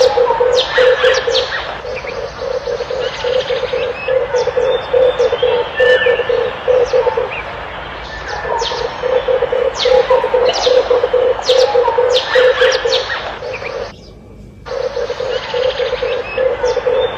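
Red turtle dove calling, repeated low, rapidly pulsed coos in phrases of a few seconds, with other small birds chirping high over them. About fourteen seconds in, the sound drops out for under a second, then the coos resume.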